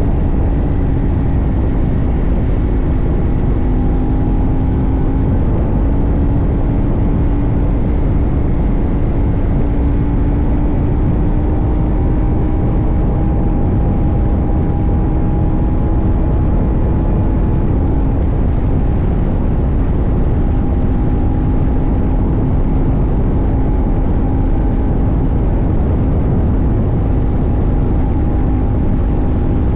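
CFMoto 800NK's 799 cc parallel-twin engine running at a nearly steady cruise, its pitch drifting only a little, under a steady low rush of wind and road noise.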